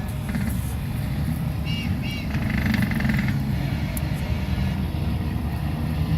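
Heavy trucks rumbling by in a steady procession, with two short horn toots about two seconds in and a longer horn blast just after.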